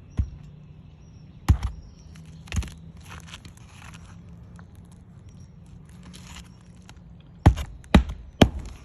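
Hammer blows driving roofing nails through an asphalt shingle: six sharp knocks, three spread out over the first few seconds and three in quick succession near the end.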